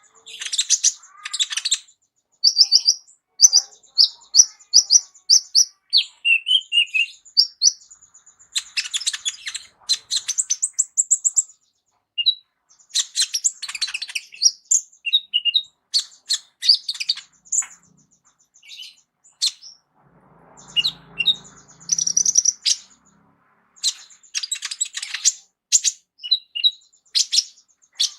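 Kolibri ninja sunbird singing a fast, varied high-pitched song of chirps, trills and quickly repeated notes, with a brief pause about two-thirds of the way through.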